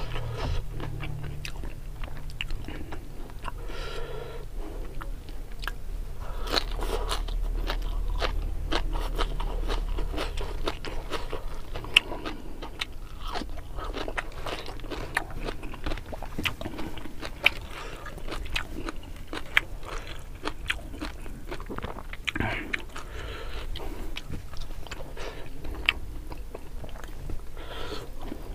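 A person chewing and crunching close to the microphone while eating raw leafy greens and rice by hand, with many small, sharp crunches and wet mouth clicks.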